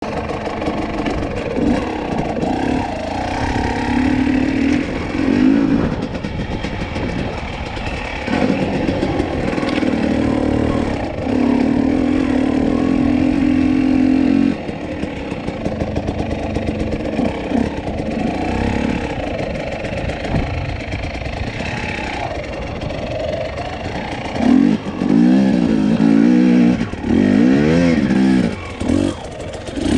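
Husqvarna TE250i two-stroke enduro motorcycle engine running, its revs rising and falling, held steady for a few seconds at a time, then rising and falling quickly several times near the end.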